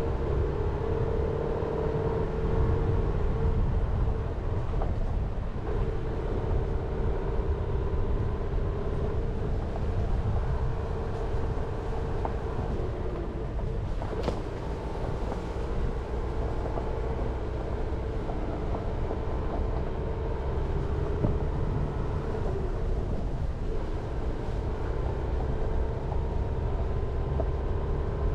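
Jeep Renegade driving along a mountain forest road: steady engine and tyre rumble with a humming tone that fades and returns, and one faint click about halfway through.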